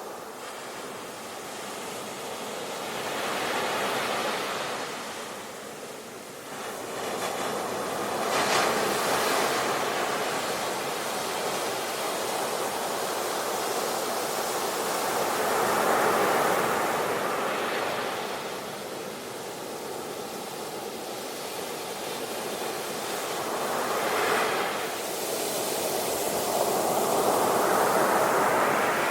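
Sea waves breaking and washing in, each surge swelling and fading every few seconds.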